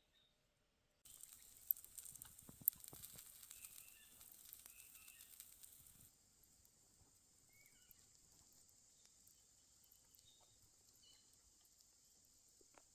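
A faint crackling hiss with two sharp pops, then after about six seconds a sudden drop to a quieter forest background with small birds chirping.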